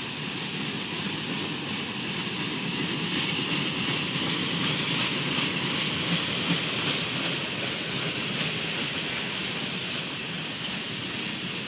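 Freight train cars rolling slowly along the track: a steady rolling noise of wheels on rails that swells a little in the middle.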